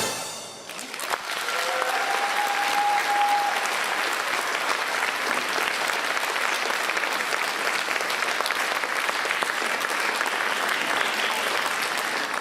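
Audience applauding steadily once the dance music stops, building up in about the first second. One drawn-out cheer rises above it about two seconds in.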